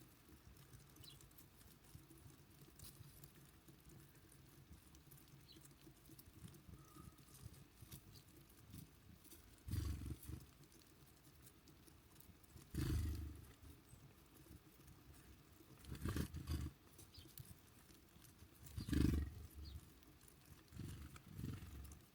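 Birds moving about on a feeder close to the microphone: five short, dull thumps and flutters a few seconds apart, over a faint outdoor background.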